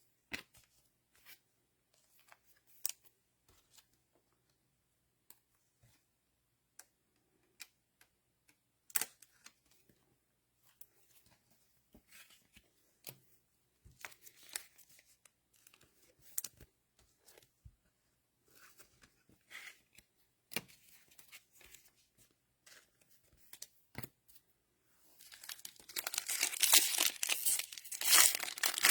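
Sparse light clicks and ticks of trading cards being handled, then near the end loud, continuous crinkling and tearing as the cellophane wrapper of an NFL Mosaic cello pack is ripped open.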